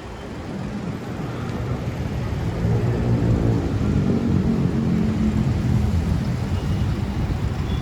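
A motor vehicle's engine running close by over steady street noise, growing louder about two seconds in as it nears, then easing slightly.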